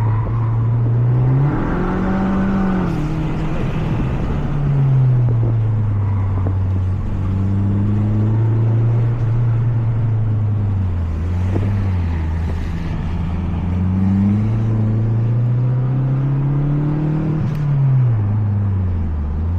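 Mazda 3 MPS's turbocharged 2.3-litre four-cylinder engine driven hard on track, heard from inside the car: the revs climb and fall again and again, with sudden drops a few seconds in, around the middle and near the end. It is being kept high in the rev range rather than pulled on low-rev torque.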